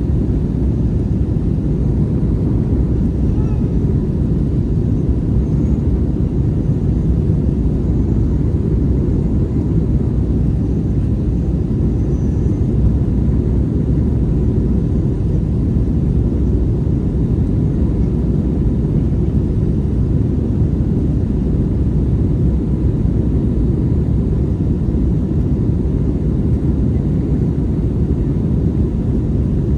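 Steady low cabin drone of an Airbus A321neo, engine and airflow noise heard from a window seat, even in level throughout.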